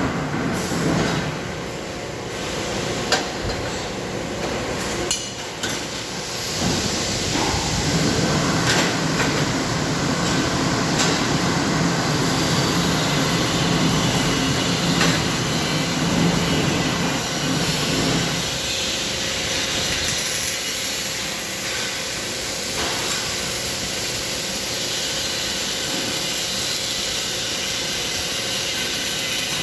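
Welding on muffler parts: a steady hissing crackle, with several sharp metallic knocks scattered through.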